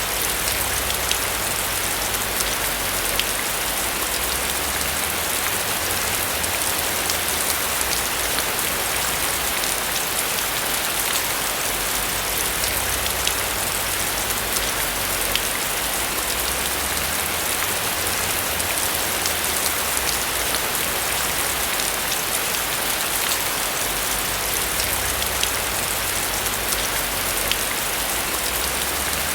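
Steady rain falling on a roof, an even hiss scattered with the ticks of individual drops, over a faint low rumble.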